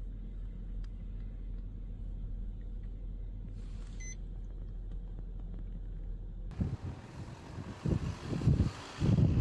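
A steady low vehicle rumble with a short electronic beep about four seconds in. Two-thirds of the way through it cuts abruptly to loud, irregular gusts of wind buffeting the microphone.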